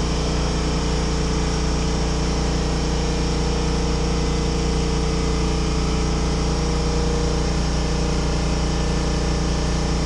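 Steady low mechanical hum with no change in level.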